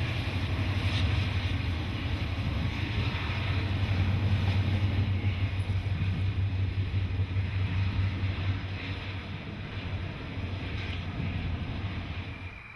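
Freight train passing: a steady low diesel-locomotive rumble with rail and wheel noise over it, easing off near the end.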